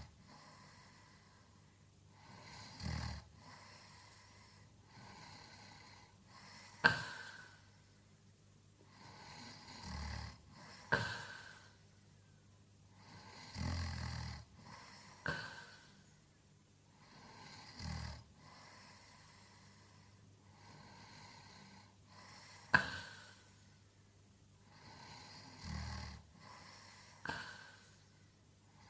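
A man snoring in his sleep, a rough snore on each breath every three to four seconds, with sharp short snorts in between; the loudest snorts come about seven and twenty-three seconds in.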